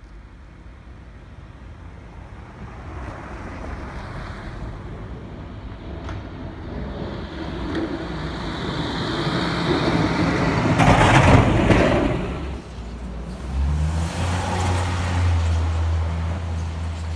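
A road vehicle passing: its noise builds gradually to a loud peak about two-thirds of the way in, then gives way to a steady low engine drone.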